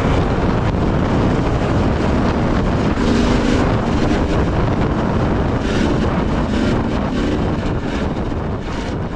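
Dirt bike engine running under way on a trail, its note swelling a couple of times as the throttle opens, with heavy wind noise on the microphone.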